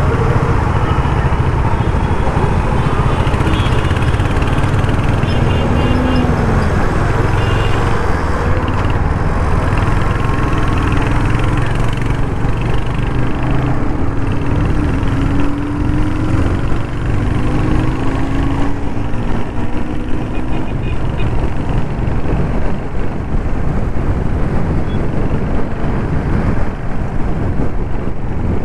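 Royal Enfield Hunter 350's 350cc single-cylinder engine running steadily as the motorcycle is ridden through traffic, with the noise of other traffic around it.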